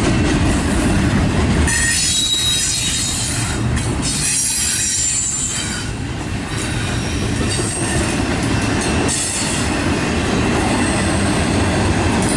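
Double-stack intermodal container well cars rolling past on the rails: a steady rumble of steel wheels, with a thin high-pitched wheel squeal at times.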